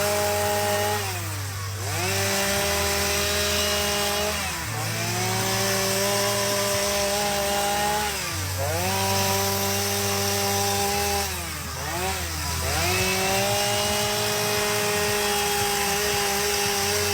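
Two-stroke chainsaw running at high revs. Every three to four seconds the revs dip sharply and climb straight back, like a throttle let off and squeezed again, or the chain bogging in the cut.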